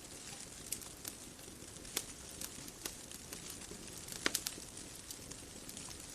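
Bonfire crackling: irregular sharp pops and snaps over a soft steady hiss, with the loudest cluster of pops a little past the middle.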